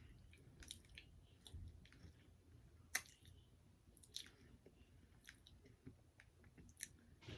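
Faint chewing of fried food close to the microphone: soft, scattered clicks and crunches of a mouth at work, the sharpest about three seconds in.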